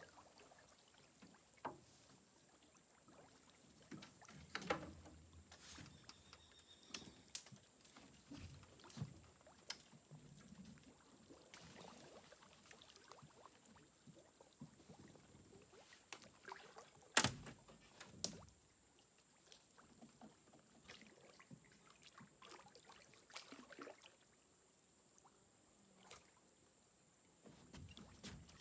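Scattered knocks and clicks of gear against a small fishing boat, the loudest a sharp knock about seventeen seconds in, with a second one just after. A faint steady high tone runs underneath.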